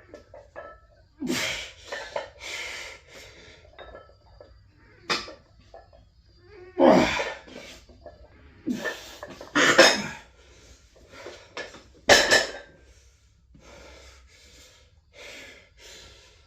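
A man breathing hard with a string of forceful, noisy exhalations, several loud ones and quieter ones between, as he strains through a set of heavy lifts.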